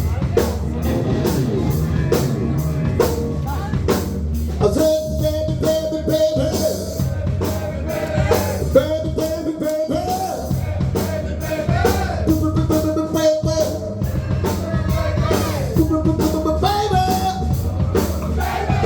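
Live rock band playing, with a drum kit keeping a steady beat under a held, bending melody line.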